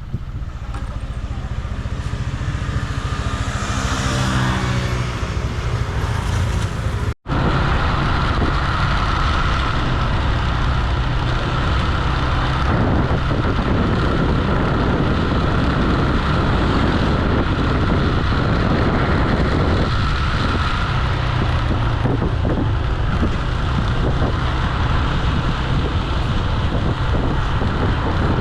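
Motor scooter engine running under way, with wind and road noise. The engine note climbs over the first few seconds as it speeds up. The sound cuts out for an instant about seven seconds in, then continues as a steady drone.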